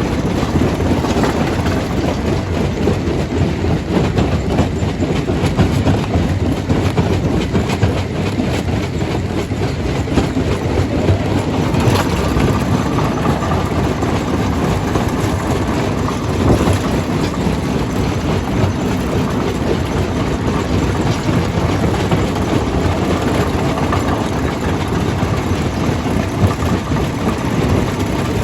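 Stone crusher running under load: a steady heavy rumble full of clattering rock, with an occasional sharper knock, about twelve seconds and sixteen seconds in.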